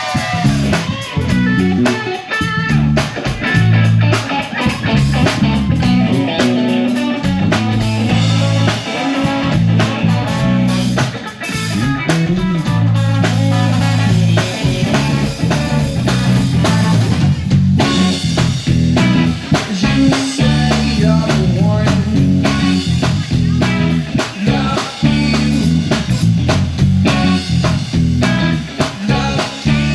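Live rock band playing an instrumental passage without singing: guitar over a drum kit and heavy low notes.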